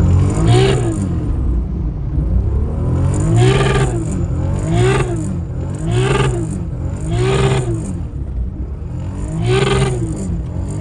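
Car engine revved repeatedly, its pitch climbing and dropping back in six quick sweeps over a steady low rumble.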